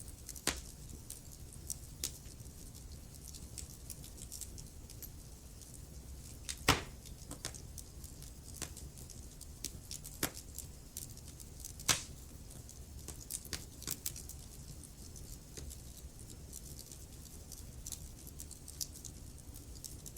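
Wood fire crackling: scattered sharp pops and snaps of burning logs over a low steady rumble of the flames, with two louder pops about 7 and 12 seconds in.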